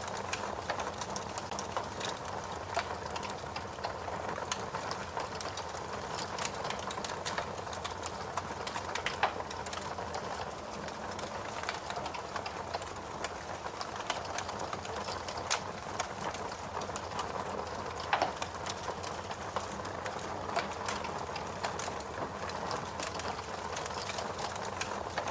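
Wood fire crackling: a steady hiss with many small, irregular pops and a few louder snaps scattered through.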